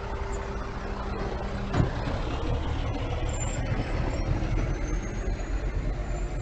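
Dump truck's diesel engine running steadily, with a brief knock about two seconds in.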